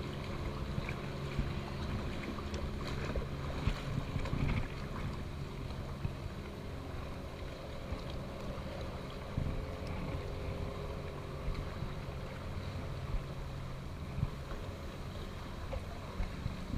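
A boat engine running at a steady drone on open water, with wind noise over the microphone.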